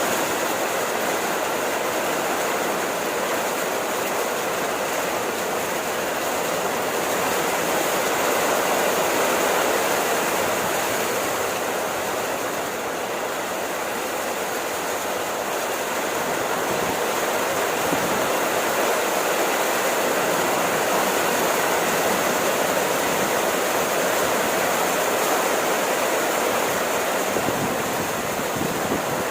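Steady heavy rain falling, an even hiss of water with no distinct drops standing out.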